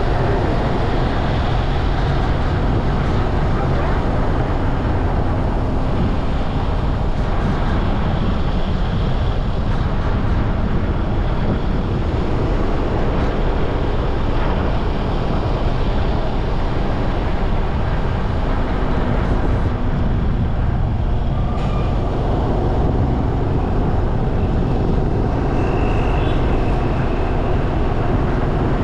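Steady road and traffic noise heard while riding through city streets, with heavy low wind rumble on the microphone. A short high tone sounds near the end.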